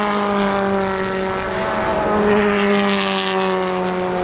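A steady engine drone, its pitch slowly falling, with a brief rise of rushing noise about two and a half seconds in.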